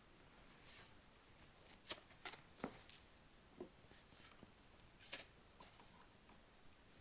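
Near silence broken by a few faint, brief clicks and rustles, a small cluster about two seconds in and another about five seconds in.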